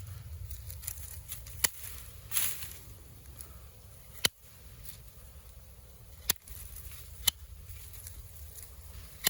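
Sharp single snips, about one every one to two seconds, as thorny yuzu shoots are cut back, over a low steady rumble.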